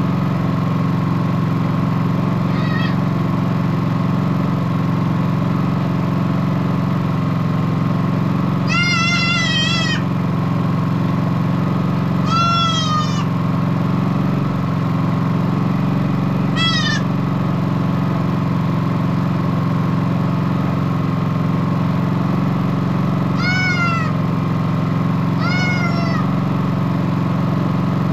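Baby pygmy goats bleating: about six short, high, wavering calls, spread out with long gaps, over a steady engine hum.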